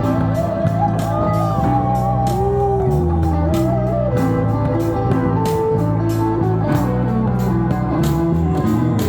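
Live rock band playing an instrumental passage after the vocals end. An electric guitar plays lead lines with bent, sliding notes over bass and a steady drum beat.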